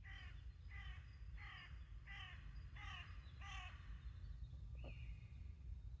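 A crow cawing six times in an even series, about one caw every 0.7 s, then stopping; a small bird gives a short call after the caws.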